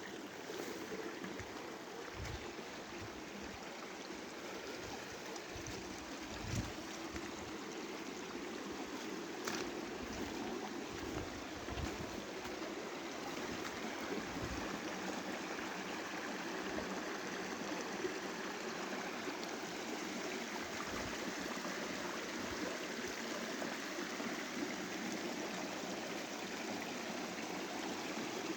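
Steady rain, an even hiss of falling and running water, with a few short low thumps.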